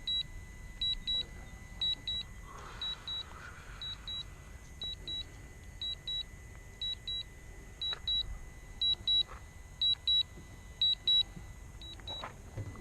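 Drone remote controller sounding its low-battery alarm: short high double beeps repeating about once a second, a warning that the aircraft battery is running low.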